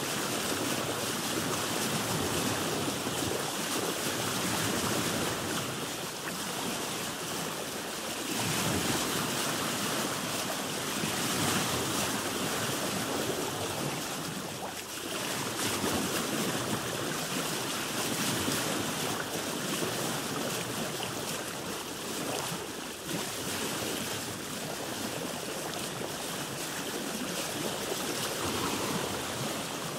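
Sea water washing around a boat, a continuous rushing wash that swells and eases every few seconds.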